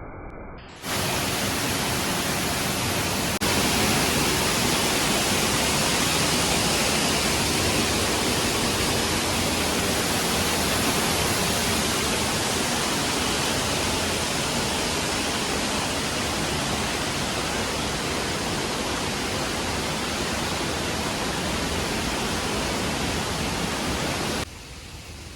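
Large waterfall: a steady, loud rush of falling water, starting abruptly about a second in and cutting off shortly before the end.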